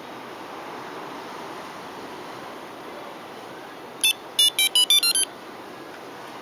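Viper 5906 remote beeping: one short beep about four seconds in, then a quick run of short electronic tones at stepping pitches, as the remote engine start is triggered. Steady faint hiss throughout.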